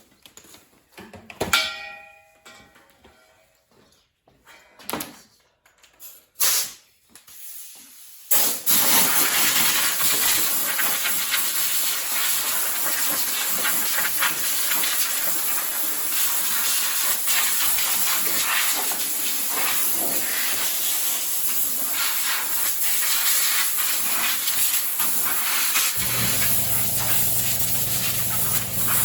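A few scattered metal clanks and knocks, one ringing briefly, then about 8 seconds in a loud, steady hissing spray starts and runs on. Near the end a low steady hum joins it.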